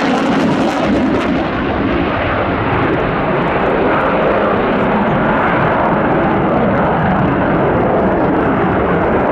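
Loud, steady jet noise from the Eurofighter Typhoon's twin EJ200 turbofan engines during a flying display. The high hiss dulls after about two seconds while the deep noise carries on.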